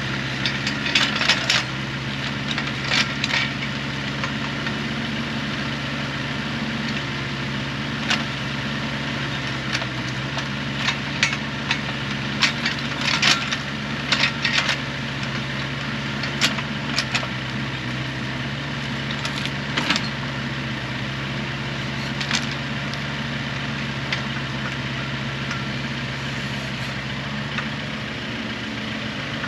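An engine running steadily at an even speed, with irregular sharp wooden cracks and knocks of firewood being handled or split over it, most of them in the first half.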